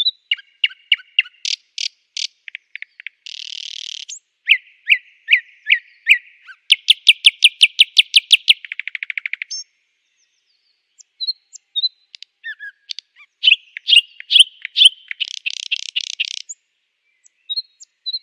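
Nightingale singing: varied phrases of rapidly repeated notes, fast trills and clear whistles, with a short pause in the middle before a second burst of song.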